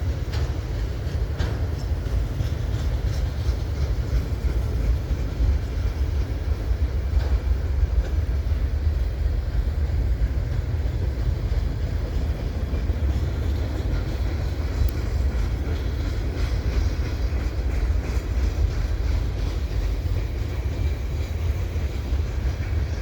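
Cars of a long freight train rolling past close by: a steady, heavy rumble of steel wheels on the rails, with a few clicks near the start.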